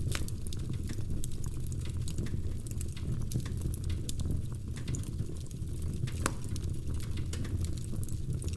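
Wood fire crackling in a fireplace: irregular sharp pops and snaps over a low steady rumble, with one louder snap about six seconds in.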